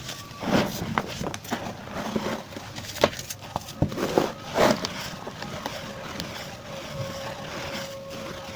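Compressed white baking soda chunks crunching and crumbling in irregular crackles and snaps, busiest in the first five seconds, then thinning out.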